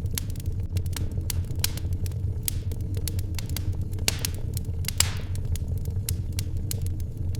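Wood fire in a fireplace crackling, with irregular sharp pops over a steady low rumble. One louder pop comes about five seconds in, trailed by a short hiss.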